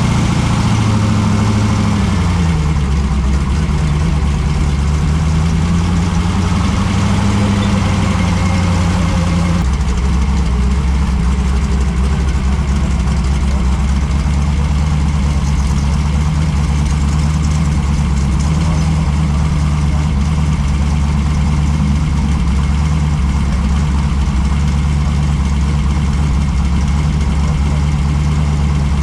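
Car engine running, its pitch rising and falling for about the first ten seconds, then changing abruptly and holding steady at an even idle.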